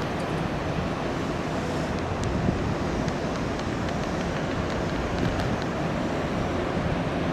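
Steady rumble of a train's wheels on the rails through the station, with a few faint clicks.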